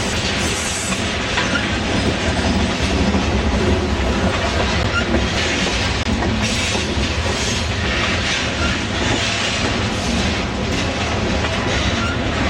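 Freight train of covered hopper cars rolling steadily past, steel wheels clattering over the rail joints with a deep continuous rumble.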